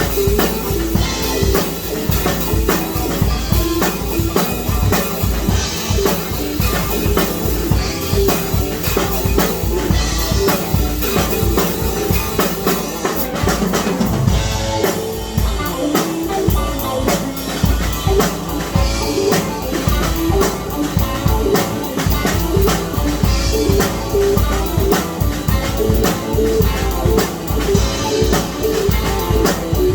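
Music driven by a drum kit playing a busy, steady beat, with bass drum and snare hits throughout.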